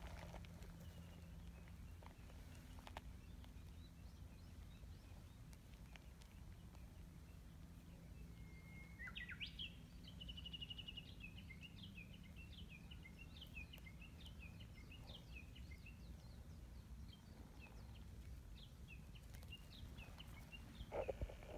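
Faint steady low hum of background noise. About nine seconds in a small songbird starts singing: a long run of quick high chirps and short trills that goes on until near the end.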